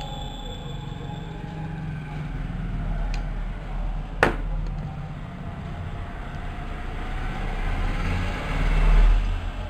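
Steady low hum with background noise, one sharp click about four seconds in, and a swell in loudness near the end.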